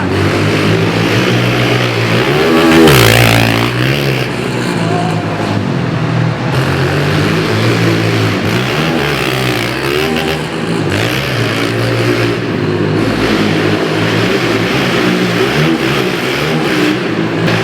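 Pit bike engines revving hard under racing, their pitch climbing and dropping over and over through throttle changes, loudest about three seconds in.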